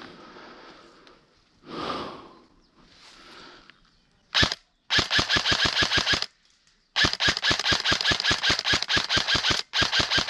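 Airsoft AK replica (SPARTAC AK47M Tactical electric rifle) firing on full auto: a short burst about four seconds in, then three longer bursts of rapid, evenly spaced snapping shots, about a dozen a second. Before the shooting there is a brief rustle of movement.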